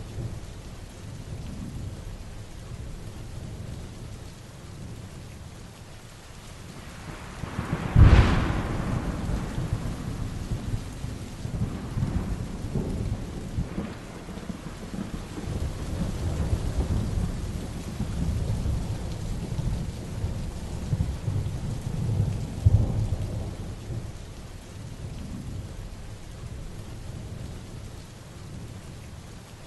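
Heavy rain falling steadily with rolling thunder underneath. About eight seconds in, a sharp thunderclap cracks and rumbles away over several seconds, and another rumble swells about three quarters of the way through.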